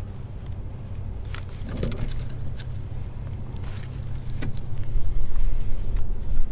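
A steady low rumble with scattered light clicks and rattles, like gear being handled up close to the microphone. The rumble grows louder about five seconds in.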